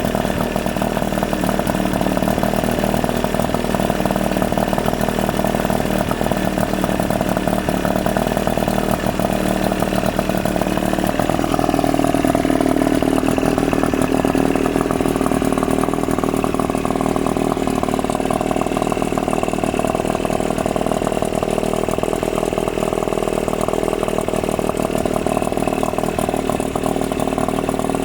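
Chrysler two-stroke outboard motor running steadily. About eleven seconds in, its speed picks up, then settles slightly lower.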